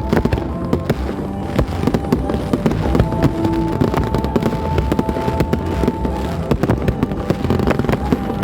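Dense, irregular crackling and popping, many sharp pops close together throughout, with music playing underneath.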